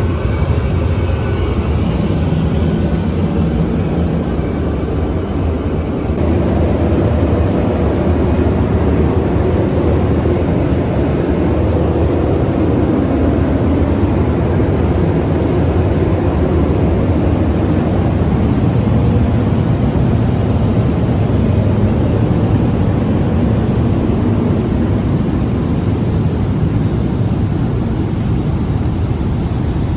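Steady roar of a Boeing 777-300ER's engines and airflow heard inside the airliner's cabin. About six seconds in the sound changes abruptly, losing some of its high hiss and gaining a fuller middle.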